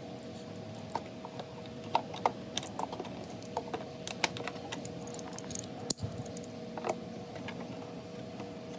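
Pliers clicking and clinking in irregular small metallic taps while the fuel line is worked off a Briggs & Stratton mower engine. A faint steady hum runs underneath.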